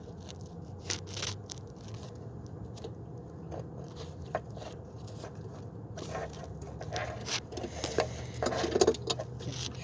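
Hand tools and fingers working on car parts: scattered small clicks and scrapes of metal, sparse at first and busier in the last few seconds.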